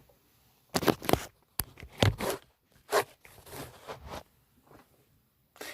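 Close handling noise on the camera: a run of scrapes, rustles and knocks rubbing against its microphone, loudest between about one and three seconds in, then fading to silence.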